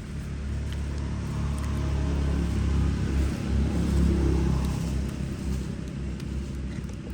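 Low rumble of a passing motor vehicle, building to its loudest about four seconds in, then fading.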